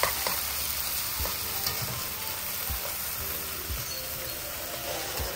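Midin fern stems sizzling in a frying pan as they are stirred, with a spatula knocking on the pan about once a second.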